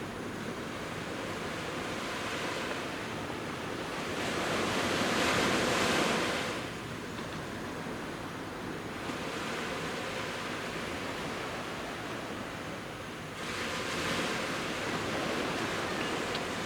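Surf of the Genkai Sea washing onto the beach: a steady wash of waves, with one wave breaking and swelling louder about four seconds in and another about thirteen seconds in.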